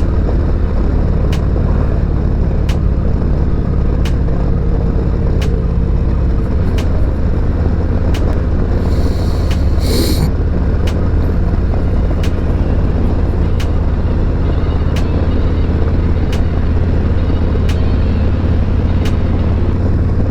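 Harley-Davidson Road Glide Special's V-twin engine, with S&S MK45 slip-on mufflers, running at a steady cruise, mixed with wind rush on the rider's microphone. Faint clicks come about every second and a half, and there is a brief hiss about ten seconds in.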